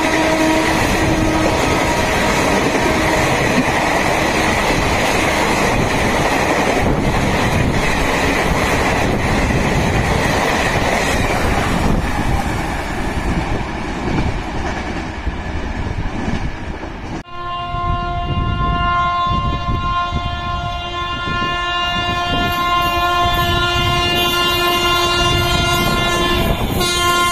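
Express train coaches rushing past at speed with rail clatter, a horn dying away in the first second. About two-thirds of the way in, a WAP-7 electric locomotive's horn starts abruptly and holds one long steady blast for about ten seconds as the train approaches.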